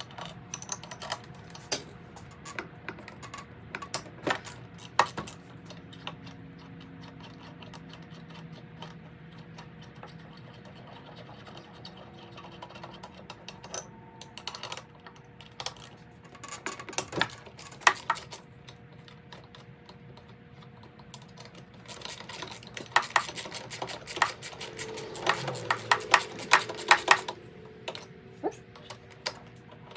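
Hand tools and small parts clicking and knocking while a Stihl BR340 leaf blower is taken apart, with a dense run of rapid clicks about three-quarters of the way in. A faint steady hum runs underneath.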